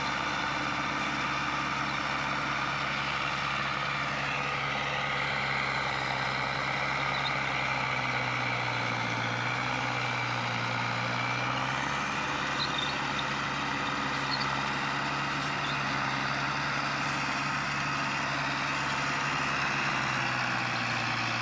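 Mahindra Arjun Novo 605 DI-MS 4WD tractor's diesel engine running steadily, its speed shifting slightly a few times.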